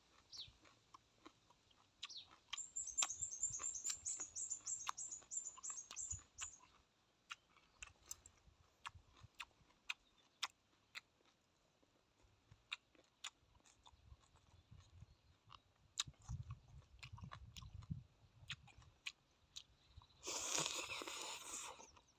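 Close-up chewing and mouth clicks of a person eating shrimp and squid salad, with a quick run of high chirps from about three to six seconds in. Near the end comes a loud breathy rush of air.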